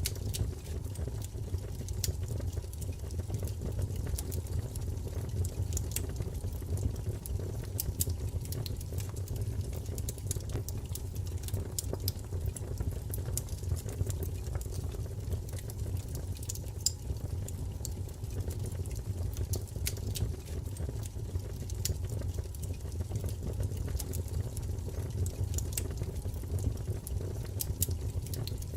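Wood fire crackling, with a steady low rumble and frequent small sharp pops.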